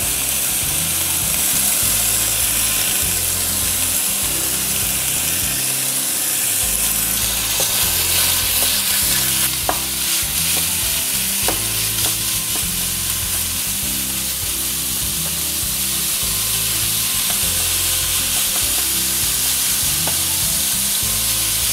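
Beef mince sizzling steadily as it browns in a hot stainless-steel frying pan. A spatula stirs it and scrapes the pan now and then as it breaks up the mince.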